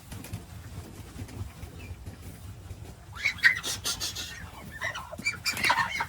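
Poultry calling in short bursts over a steady low rumble, about three seconds in and again near the end.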